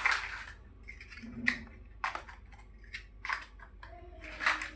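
Plastic building bricks being handled and pressed together by hand: a handful of sharp clicks and rustles at uneven intervals.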